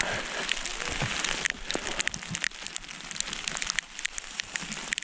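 Rain pattering close to the microphone: a steady hiss with many sharp, irregular ticks of drops striking.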